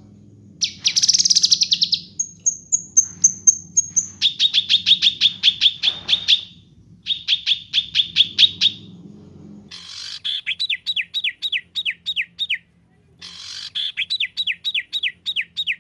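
A songbird sings in rapid bursts. It opens with a dense high trill, then long runs of fast repeated notes at about seven a second, then runs of quick downward-sliding whistled notes at about three or four a second. A low steady hum sits under the first two-thirds and stops about ten seconds in.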